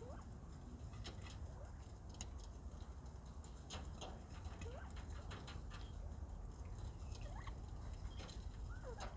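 Bobwhite quail in an aviary making soft, short chirps, mostly near the end, over scattered small clicks and scratches of birds moving and pecking. A low steady rumble runs underneath.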